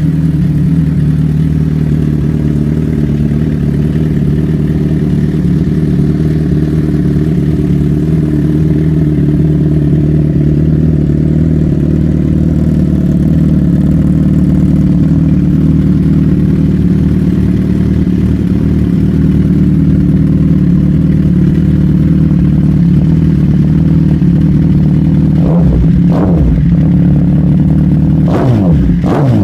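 Suzuki GSX-R1000's inline-four idling steadily through an aftermarket Bodis exhaust, with two short throttle blips late on and quick revs rising and falling near the end.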